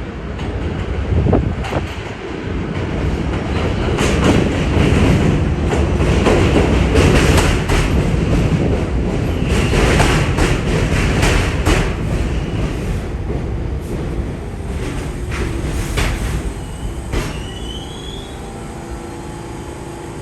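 New York City subway train running through the station, a loud rumble with rapid clacking over the rail joints. It builds, peaks, then eases off, with a brief rising wheel squeal near the end.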